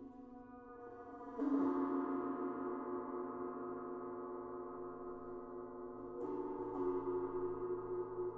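Struck resonant metal instruments ringing with many sustained, wavering tones that beat against each other. A fresh strike comes about a second and a half in and another about six seconds in.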